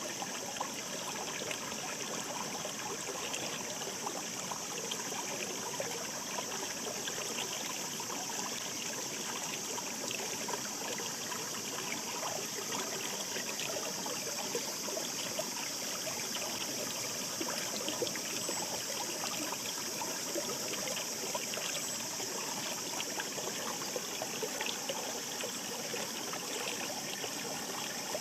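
Shallow mountain stream babbling and trickling over rocks, a steady murmur with many small splashes.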